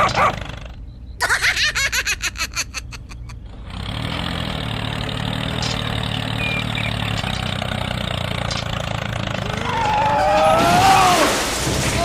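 An engine cranking in a quick run of about five pulses a second, then catching and running steadily. Near the end, wavering pitched sounds rise and fall over the engine.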